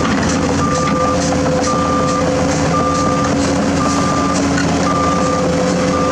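Heavy diesel vehicle's reversing alarm beeping about once a second, six even beeps, over the steady running of its diesel engine.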